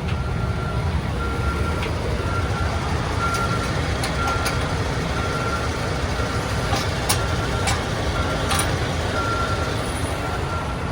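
A reversing alarm beeping on one repeated pitch over the steady low rumble of an idling diesel truck engine, with a few sharp metallic clicks and knocks in the middle.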